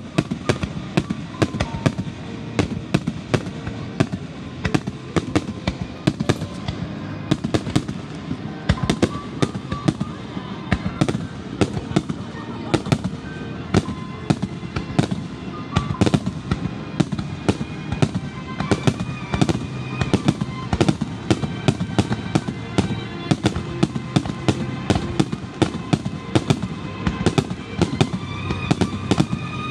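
Fireworks display: a rapid, unbroken barrage of bangs, several a second, all the way through.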